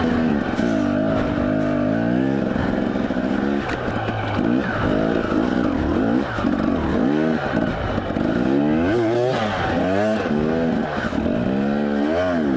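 Husqvarna two-stroke enduro motorcycle engine working along a trail, its pitch rising and falling again and again as the throttle is opened and rolled off.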